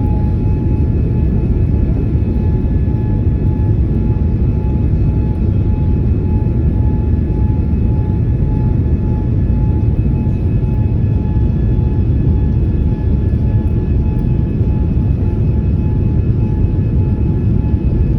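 Airbus A330-300 cabin noise: a steady low rumble of engines and airflow, with a thin steady tone above it.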